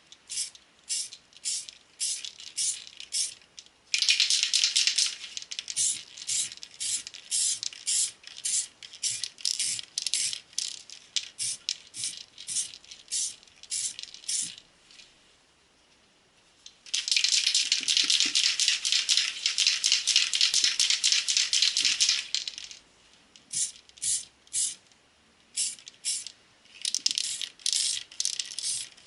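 Rhythmic rattling in short strokes, about three a second. There are two longer spells of continuous rattling, one about four seconds in and one from about seventeen to twenty-two seconds.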